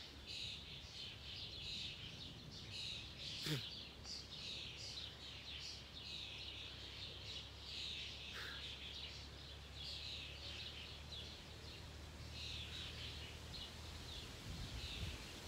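Birds chirping and singing all through, over a low steady background rumble, with one sharp click about three and a half seconds in.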